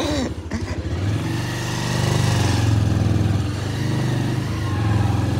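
Small motorcycle engine running as the bike rides off carrying two people, picking up and getting louder about a second in, then holding steady.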